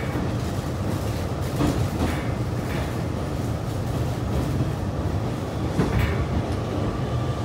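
Hanshin 9300 series electric train running, heard inside the passenger car: a steady low rumble, with a few sharp clicks as the wheels cross rail joints.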